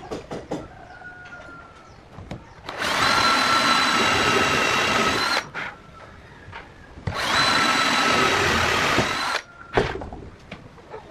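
Angle grinder switched on and run at steady speed in two bursts of about two and a half seconds each, a constant whine over a noisy rush, with short knocks and clicks of handling before, between and after.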